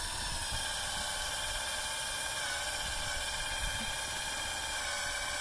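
Power drill boring a tap hole into a maple trunk for sap collection: the motor spins up to a steady high whine and keeps running under load, sagging a little in pitch.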